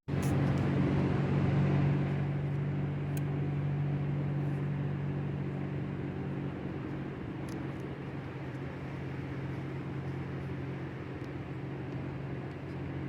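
A vehicle engine running steadily, a little louder for the first two seconds before settling.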